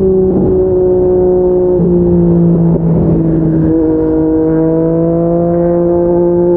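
Yamaha MT-09 three-cylinder engine running through an aftermarket Yoshimura R55 slip-on exhaust while riding at steady throttle. Its pitch eases down a little over the first few seconds, then climbs gradually as the bike picks up speed again.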